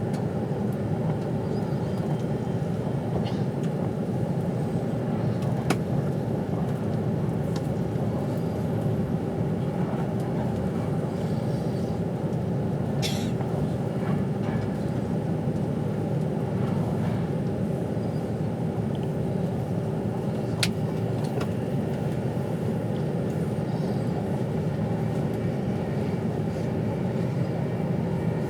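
Steady rumble inside the carriage of an Avanti West Coast passenger train running at speed, with a constant hum under it and a few faint clicks.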